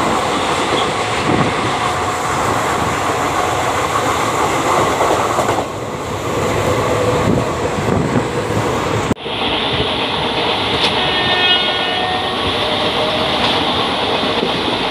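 Express train running at speed, heard from an open carriage doorway, with a local train rushing past close by on the opposite track in the first seconds. About nine seconds in the sound breaks off abruptly and the running noise picks up again.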